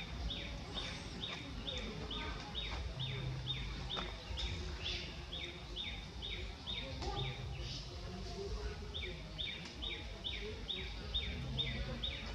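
A bird repeating a short falling whistle about twice a second, pausing once briefly about two-thirds of the way through, over a steady outdoor background hum.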